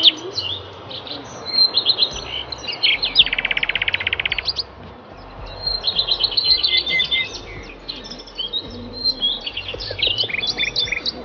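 Several birds chirping and calling in quick, overlapping notes, with a fast rattling trill about three seconds in that lasts over a second.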